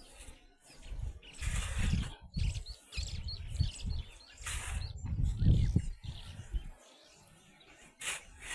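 Birds chirping, over irregular low rumbling and several short spells of rustling noise.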